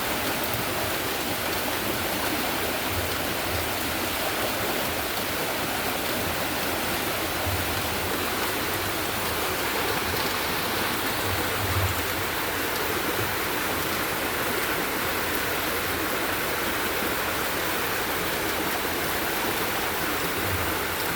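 Fast-running storm water rushing down a gully in heavy rain: a steady, unbroken rush, with a few brief low rumbles.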